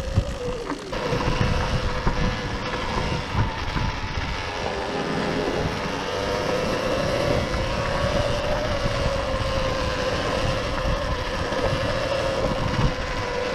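Sur-Ron Ultra Bee electric dirt bike's motor whining at a steady, slightly wavering pitch while riding, over wind and road rumble on the microphone.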